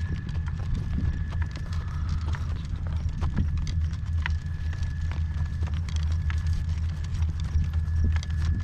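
A horse's hooves clip-clopping at a slow walk, scattered irregular steps, over a steady low rumble.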